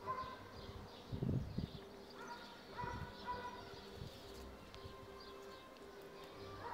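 Birds calling in the background: short repeated pitched calls and high chirps, with a dove cooing. A couple of soft low thumps come about a second in.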